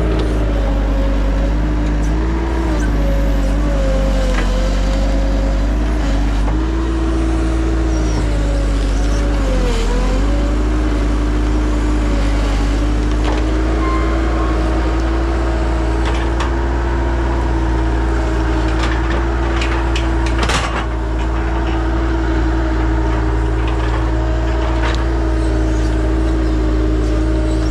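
Bobcat 873 skid steer's diesel engine running steadily at high revs, its pitch sagging briefly about ten seconds in as it takes load, with a few short knocks near the end.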